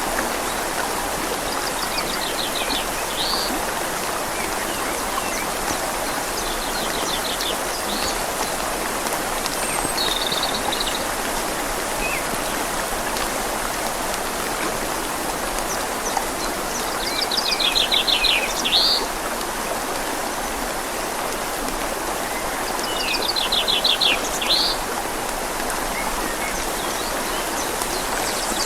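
Steady rain falling on leaves and a river flowing, an even rushing hiss. A bird sings a short, fast trill about five times over it, loudest in the second half.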